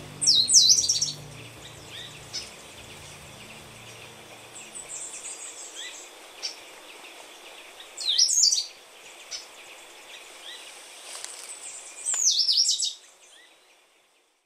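Forest birdsong: one bird sings three loud phrases, at the start, about eight seconds in and about twelve seconds in, each a quick run of high notes that falls and then steps down, over fainter calls of other birds. A low steady hum dies away about five seconds in, and the whole soundscape fades out near the end.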